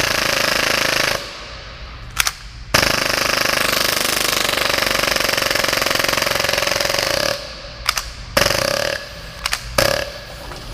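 Full-auto gas blowback Hi-Capa airsoft pistol dry-firing in rapid bursts with no BBs or magazine, the slide cycling at about 30 rounds per second. It fires a burst of about a second, a short blip, a long burst of about four and a half seconds, then a few shorter bursts.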